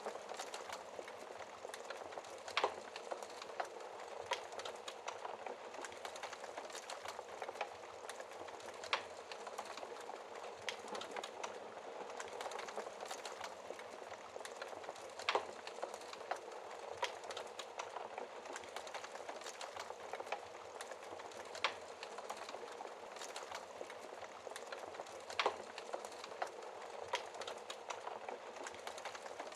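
Wood fire burning in a fireplace: a steady crackling hiss with sharp pops at irregular intervals, a few of them louder than the rest.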